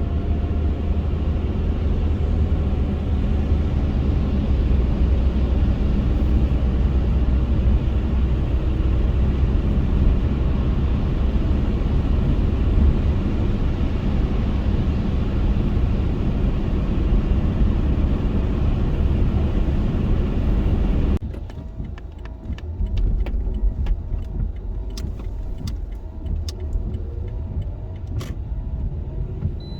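Car driving, with a steady low rumble of engine and road noise. About two-thirds of the way through, the sound drops suddenly to a quieter, thinner rumble with scattered clicks.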